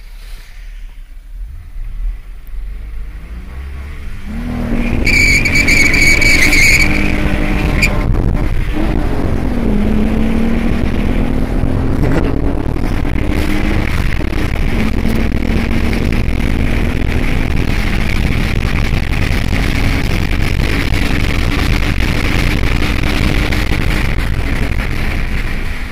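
Car accelerating hard from a near standstill, heard from inside the cabin: a few seconds in the engine note rises, drops back and climbs again several times as it shifts up through the gears, with a brief high squeal as it pulls away. Wind and road noise build up at speed.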